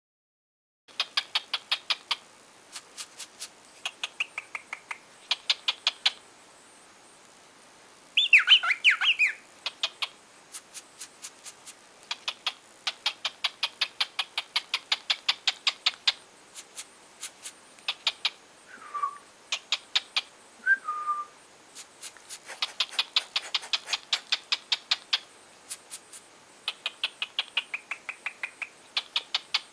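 Cockatiel chattering in runs of rapid pulsed chirps, with a louder warbling call about eight seconds in and two short falling whistled notes about two-thirds of the way through.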